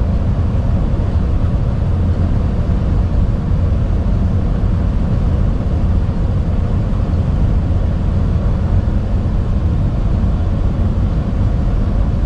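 Truck cab interior while driving on the highway: the steady low drone of the diesel engine together with tyre and road noise.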